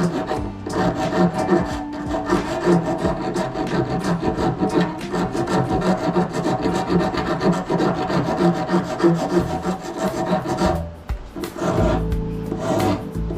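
Hand rasp filing a deer taxidermy form in quick, repeated scraping strokes, with a short pause near the end.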